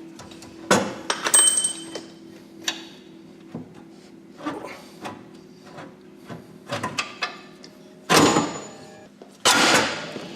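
Metal clanks, clicks and knocks of hand tools and parts as a car's front cross member is worked on, with two louder rushing bursts, each about a second long, near the end over a faint steady hum.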